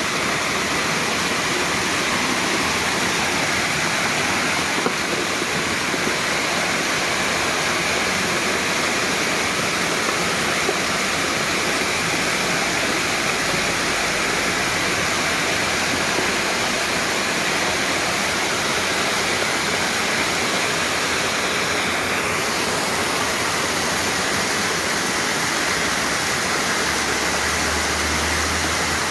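Floodwater rushing down a swollen creek in a flash flood: a steady, unbroken noise of fast-moving water.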